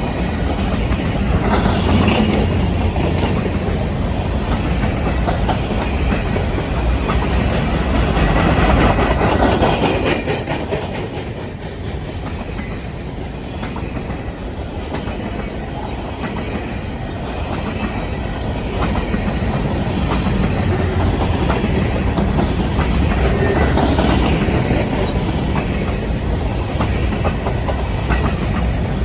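Freight train rolling past, its wagon wheels clicking steadily over the rail joints, with a low locomotive hum swelling near the start and again later on.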